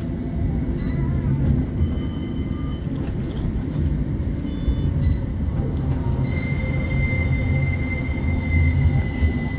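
West Midlands Metro CAF Urbos 3 tram running, heard from inside the car: a steady low rumble of wheels and running gear. About six seconds in, a high steady wheel squeal joins and holds.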